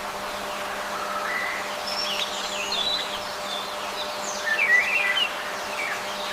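Small birds chirping: scattered short, quickly gliding calls over a steady background hiss, busiest about four and a half to five seconds in.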